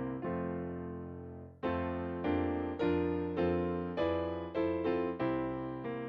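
Closing music on piano: one chord held and fading for about a second and a half, then a steady run of struck chords about every half second.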